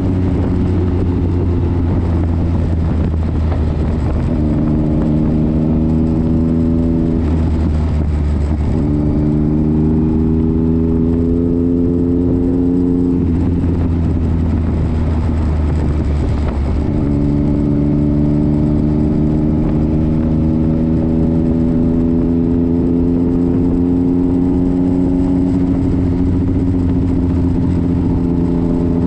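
Motorcycle engine heard from the bike carrying the camera, running at road speed under a steady low rumble. Its note climbs slowly in several runs as it accelerates, drops away about 13 seconds in as the throttle closes, and picks up again about 17 seconds in.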